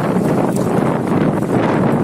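Storm-force wind gusting hard across the microphone: a loud, rough rushing noise.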